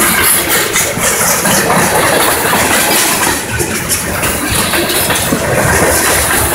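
Freight train's covered hopper and tank cars rolling past: a loud, steady rumble of steel wheels on rail, with clicking and clacking over the rail joints.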